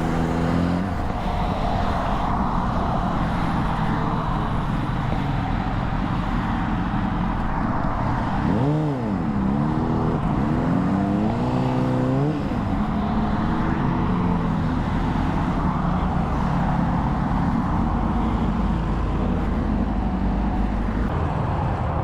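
Honda CBR600RR inline-four engine running at highway speed under a steady rush of wind and road noise. The revs drop sharply and climb back about eight seconds in, then rise again a few seconds later before settling.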